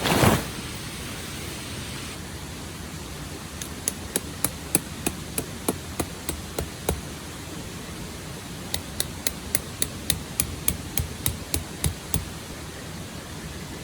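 Tent pegs being hammered into the ground: two runs of about ten sharp strikes each, roughly three a second, with a short pause between them. A brief loud rush of noise comes at the very start, and a steady rushing background runs underneath.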